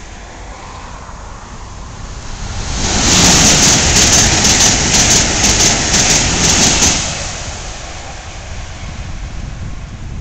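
Passenger train passing close by: a rushing rumble of wheels on rail that swells over a couple of seconds, stays loud for about four seconds, then fades as the train goes away.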